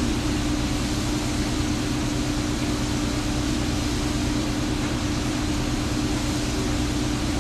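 Steady mechanical hum of kitchen equipment: a constant low droning tone over an even rush of air.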